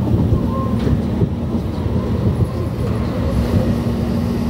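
Running noise inside a Meitetsu electric express train: a steady low rumble of wheels on rail as the train pulls into a station. A steady hum joins about halfway through.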